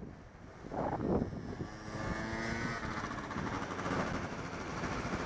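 A motor vehicle's engine running in traffic, its whine rising slightly in pitch, after a short burst of wind on the microphone.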